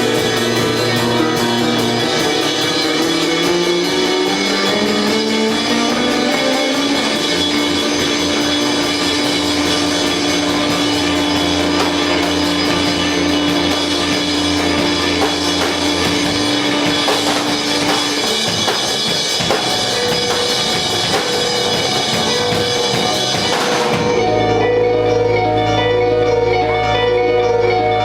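Live rock band playing loud: a drum kit with a constant cymbal wash and distorted electric guitar, with a note sliding upward over the first few seconds. Near the end the cymbals stop suddenly and ringing guitar notes carry on over the bass.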